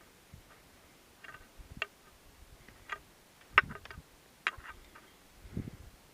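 A few scattered, irregular knocks and clicks with quiet between them, the loudest about three and a half seconds in: a person on foot picking through debris and brush.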